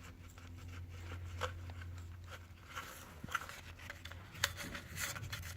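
Faint light clicks and scrapes of a Mazdaspeed Protege turbocharger's shaft and compressor wheel being wiggled by hand to check for shaft play, with no knocking: the shaft has no play at all.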